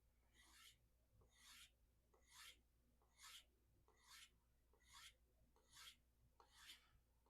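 Knife blade being stropped on a hard leather strop loaded with 3-micron diamond emulsion: eight faint, even, hissing strokes, about one a second.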